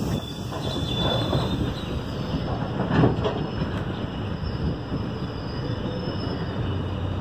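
Passenger train running on its rails, heard from aboard as a steady rolling rumble of wheels on track, with one short, louder burst of noise about three seconds in.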